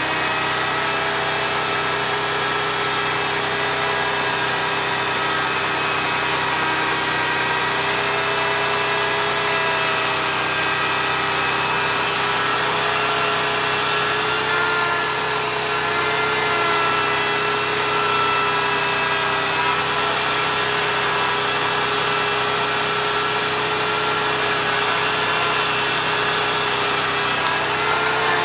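An Oregon CS1500 electric chainsaw and the portable generator that powers it, running steadily while a tree is cut, with a slightly wavering mechanical hum and no breaks.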